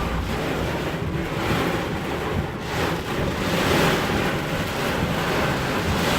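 Storm wind and heavy rain during a tornado, a steady rushing noise that swells and eases in gusts, with wind buffeting the microphone.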